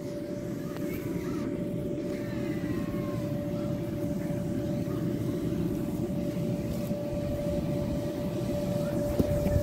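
A steady engine drone: a low rumble with one constant hum on top that holds the same pitch throughout.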